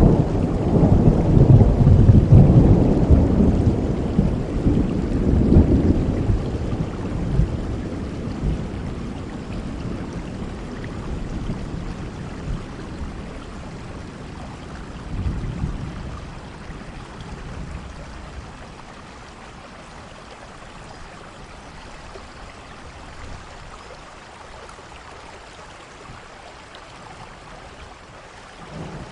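Thunderstorm: a long low roll of thunder at the start that slowly dies away over about ten seconds, a smaller rumble midway, then steady rain.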